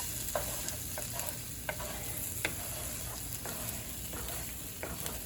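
Sliced onions frying in butter in a pan, a steady sizzle, caramelized dark. A few sharp clicks sound through it.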